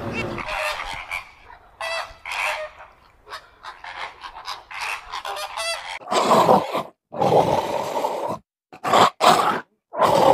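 A run of short, high animal calls, then about four loud, rough roars from a dinosaur sound effect.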